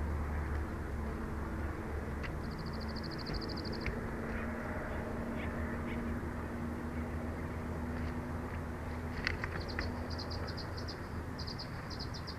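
A bird calling in rapid, high-pitched trills: one short even trill, then a longer broken run of trills near the end. A steady low rumble of wind on the microphone runs underneath.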